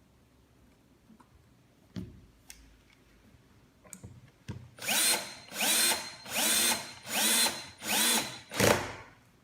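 Power drill driving a screw into the wooden drawer in six short bursts. Each burst spins up with a rising whine and then holds. A few light knocks from handling the piece come first.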